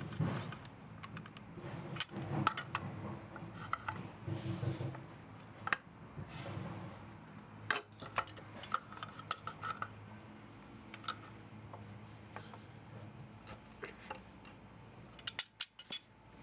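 Metal parts and hand tools clinking, clicking and scraping at irregular intervals as an electric pump motor is taken apart for scrap.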